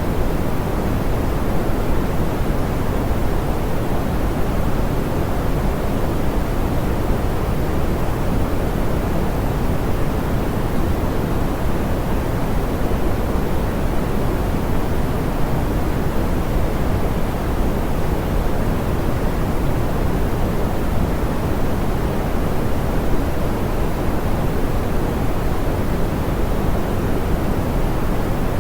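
Steady, soft pink noise: an even hiss weighted toward the low end and smoothed of its upper highs, unchanging throughout.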